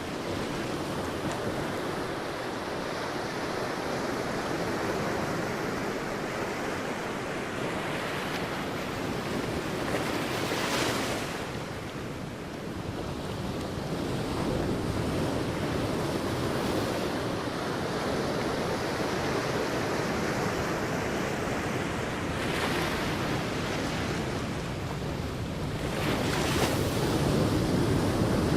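Sea waves washing onto a beach, a steady surf noise with waves breaking more loudly about ten seconds in, again past twenty seconds, and near the end. Wind on the microphone is mixed in.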